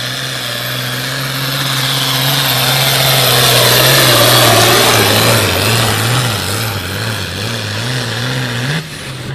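Pulling tractor's diesel engine running hard under load, getting louder to a peak about four seconds in. Its note then wavers up and down, and the level drops suddenly near the end.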